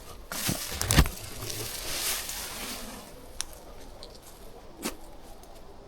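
Footsteps and rustling through forest undergrowth, with a sharp crack about a second in and a few fainter snaps later on.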